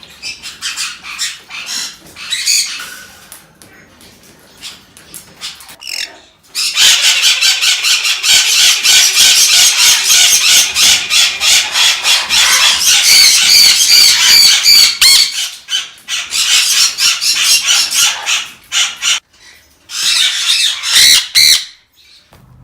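Parrots screaming: scattered loud calls at first, then a dense, continuous din of shrill screeches for about eight seconds, then more bursts of screams that break off near the end.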